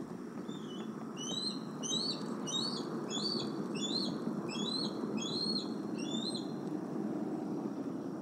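A bird calling a slow, even series of about ten high chirped notes, each rising then dropping in pitch, over a steady low background rumble.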